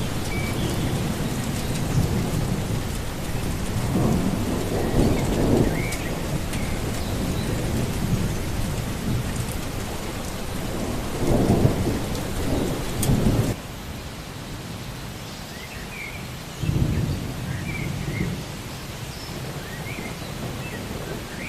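Steady rain with thunder rumbling low several times: a rolling swell about four seconds in, a louder one around eleven to thirteen seconds that cuts off abruptly, and another about seventeen seconds in.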